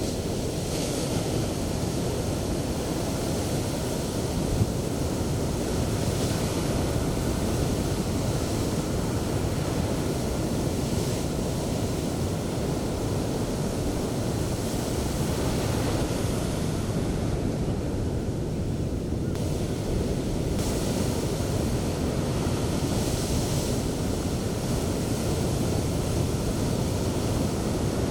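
Sea surf breaking on a beach: a continuous low rumble of waves, with the hissing wash of a breaking wave rising every few seconds.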